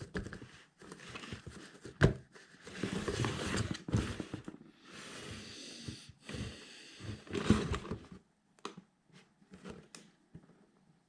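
LEGO Technic plastic pieces and packaging being handled: on-and-off rustling with scattered clicks, one sharper click about two seconds in.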